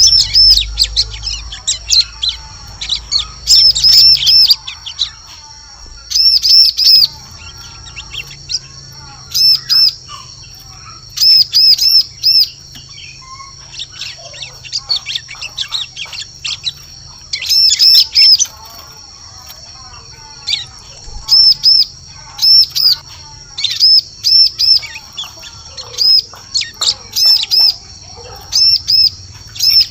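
Bar-winged prinia (ciblek) calling: loud groups of two to four sharp, high chirps, repeated every second or two. A steady high-pitched whine and softer twittering run underneath.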